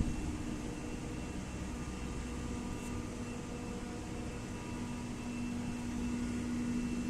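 York YV chiller with an inverter-driven screw compressor running: a steady machine hum with a constant tone and an even whooshing haze.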